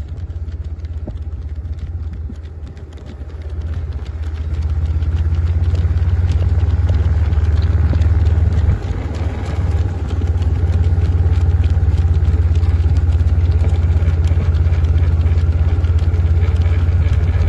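Steady low rumble of a moving motor vehicle, growing louder about four seconds in and then holding.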